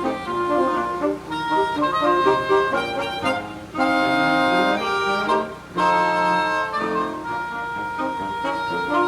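Saxophone quartet playing a Hakka folk song in four-part harmony, with moving lines broken by two held chords in the middle.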